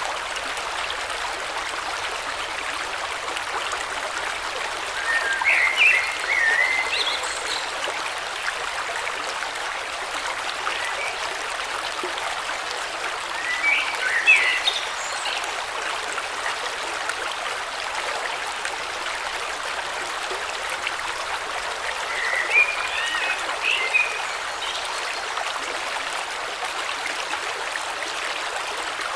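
River water flowing steadily, with a bird singing three short chirping phrases over it, about five, fourteen and twenty-three seconds in.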